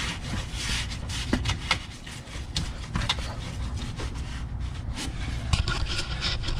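Towels being stuffed and pushed into a gap behind a plastic cover: rustling and scraping with a few light clicks and knocks against the plastic.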